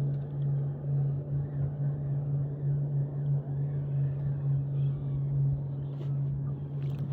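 Boat engine running steadily with a constant low hum, and a couple of light clicks near the end.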